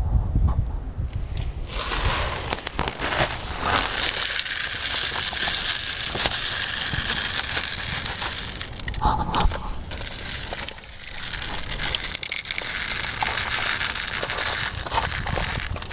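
Footsteps crunching through snow, setting in about two seconds in and going on steadily, with a short let-up in the second half.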